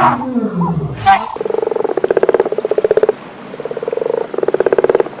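An animal call falling steeply in pitch, followed from about a second in by repeated rapidly pulsing calls in bouts of half a second to a second.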